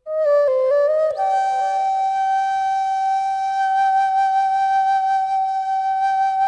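Solo wind-instrument music: it starts suddenly with a few quick notes, then holds one long steady note.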